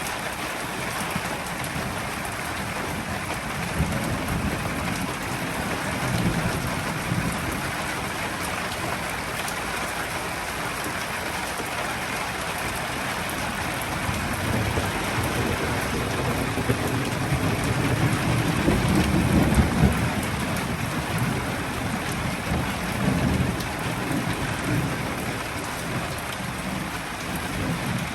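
Steady rain falling during a thunderstorm, with low rumbles of thunder rising and falling under it, the strongest about two-thirds of the way through.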